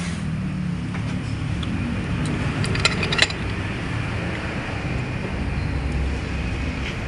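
Steady low rumble of running machinery, with a few light metallic clinks about three seconds in as transmission gear parts are handled.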